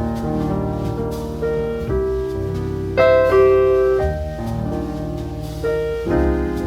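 Piano music: chords and melody notes played at a gentle pace, with louder chords struck about three seconds in and again near the end.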